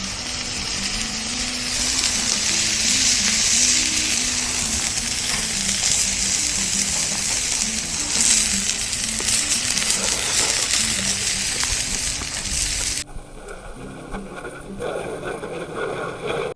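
Food sizzling on a BBQ grill: a loud, steady hiss with fine crackles, over soft background music. About three seconds before the end the sizzling cuts off abruptly and the sound drops to quieter background.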